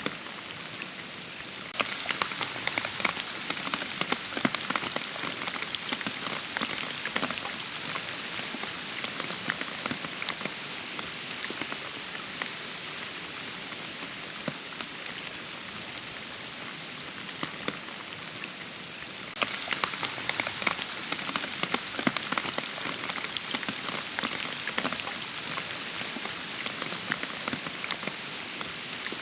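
Steady rain falling, a dense patter of many separate drops striking. The patter gets louder abruptly about two seconds in and again about twenty seconds in.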